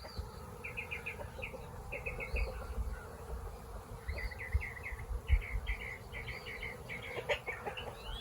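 Honeybees humming steadily around an opened hive, with short runs of high chirps from a bird coming about every second.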